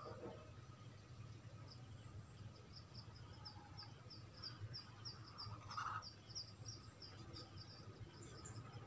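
Near-silent room with a faint low hum and a series of faint short high chirps, about three a second through the middle, like a small bird calling in the background.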